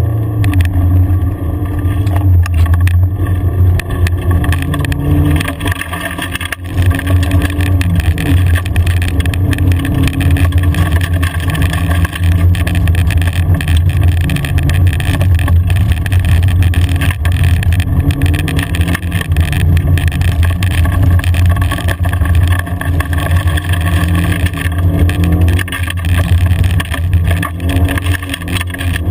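Car engine heard from inside the cabin, pulling away from a standstill and then driven hard along a gravel track, its note rising and falling with the throttle and gear changes, over a steady noise of tyres on loose gravel.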